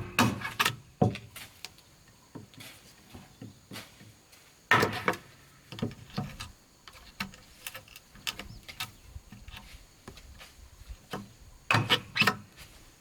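Bamboo and wood knocking and clattering as they are handled, in irregular strikes with many small clicks between. The loudest knocks come right at the start, about five seconds in, and in a quick cluster near the end.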